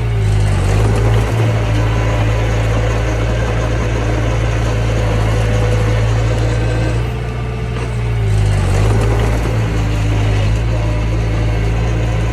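Mini bulldozer's diesel engine running steadily while working, its pitch shifting briefly about half a second in and again around eight seconds in.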